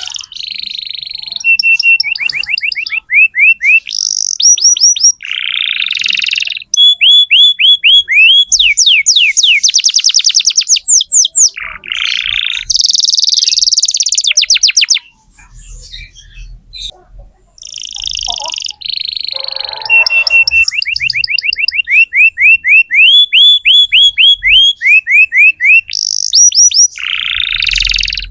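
Domestic canary in full song: loud, fast runs of repeated rising notes alternating with buzzy, rattling phrases, with a short pause about halfway through.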